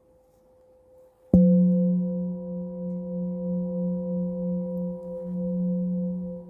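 A singing bowl is struck once, about a second in, and rings on with a low, wavering hum and several higher overtones. Before the strike, a faint ringing tone carries on.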